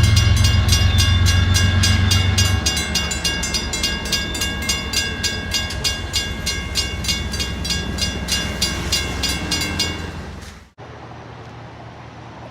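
A Western Railroad Supply (WRRS) mechanical grade-crossing bell ringing with rapid, even strokes. A low rumble sounds under it for the first few seconds. The bell stops near the end, and after an abrupt cut only quieter background noise is left.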